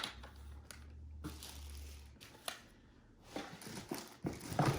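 Handling noise from the plastic parts of a stick vacuum: a few sharp clicks and soft rustling, over a low hum that stops suddenly about two seconds in.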